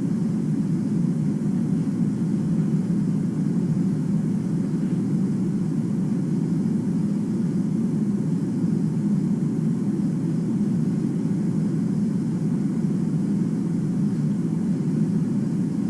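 A steady low rumbling noise, even throughout with no changes.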